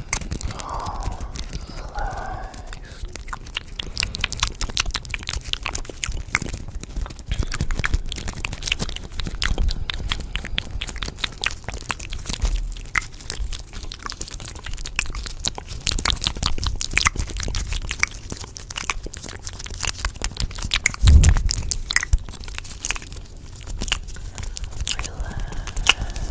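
Close-miked crunchy chewing: a dense, irregular stream of crisp crunches and clicks.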